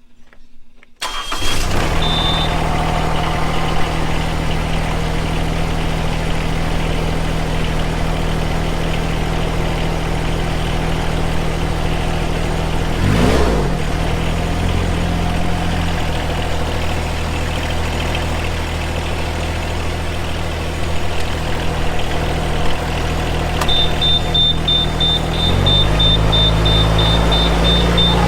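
Yanmar VP80DX rice transplanter engine starting about a second in and then idling steadily. Its pitch dips and comes back up once midway and changes again near the end. A short high beep sounds as it catches, and a steady high beeping starts late on.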